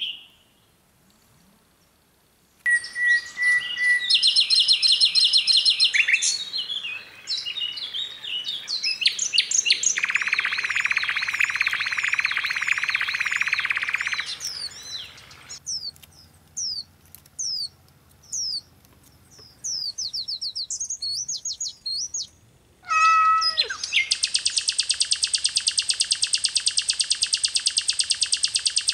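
Songbirds chirping and singing in a string of different high calls, whistles and trills that start and stop abruptly. A dense buzzing trill comes in the middle, and a fast, steady repeated trill comes near the end.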